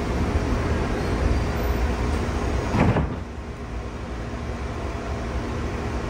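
Interior running noise of a JR East 211 series 0 electric multiple unit: a steady rumble of wheels on rail and underfloor equipment. About three seconds in there is a short clunk, after which the running noise becomes noticeably quieter.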